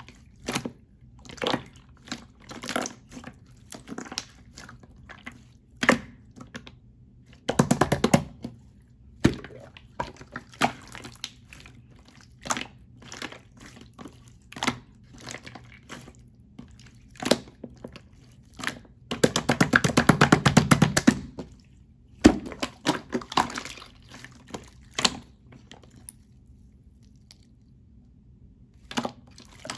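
Clear slime being squished and pressed by hand, giving a string of short wet clicks and pops. There are two longer crackling squelches, about eight seconds in and again around twenty seconds in.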